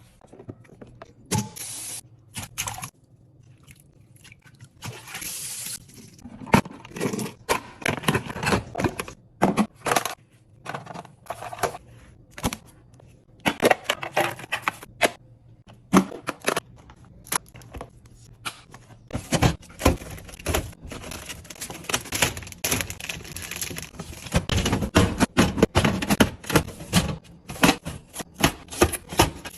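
Food containers and groceries being handled and set down: a steady run of irregular clicks, knocks and scrapes.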